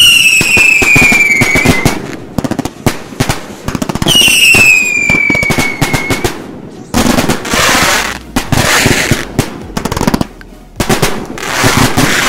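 Fans 100-shot XL aerial finale set, consumer aerial fireworks, firing: a rapid run of bangs with two falling whistles, one at the start and one about four seconds in, and dense crackling from about seven seconds on.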